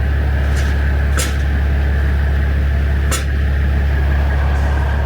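Semi truck's diesel engine idling with a steady low drone, with three short sharp clicks in the first few seconds.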